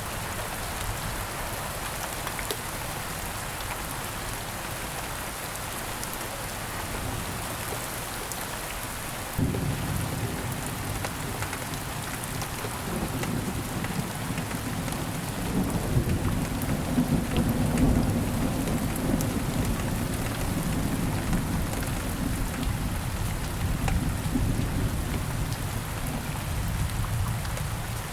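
Steady rain falling, with a long, low rumble of thunder. The thunder comes in suddenly about a third of the way in, swells, and fades away near the end.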